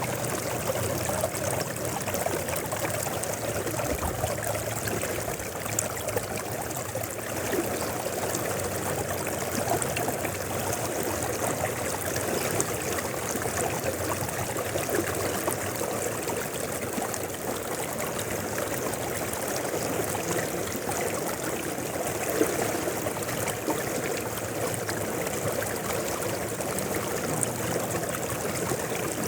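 Mountain river flowing steadily over rocks, a continuous rushing and babbling of water.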